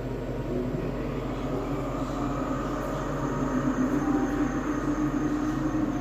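A steady low rumbling drone with several held humming tones and a hiss over it, growing a little louder near the end.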